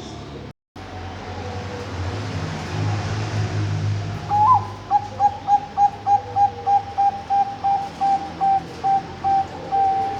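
Perkutut bangkok (Thai-bred zebra dove) cooing, the opening part of its song. It starts about four seconds in with an upward note, then gives a quick string of short, evenly spaced coos, about three a second, and ends on a longer held note, over a steady low hum.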